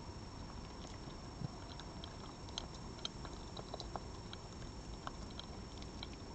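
An animal chewing food, a scatter of small irregular crunching clicks over a steady background hiss.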